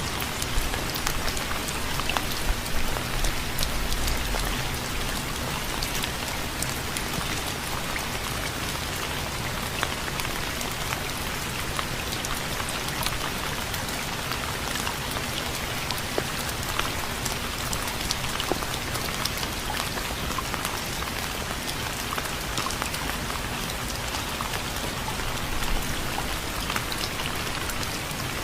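Steady rain falling on a surface, with many separate drop ticks over an even hiss.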